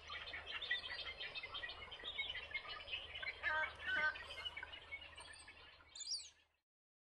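Wild birds chirping and calling in a dense, busy chorus, with a few louder calls around three and a half to four seconds in; it cuts off abruptly about six and a half seconds in.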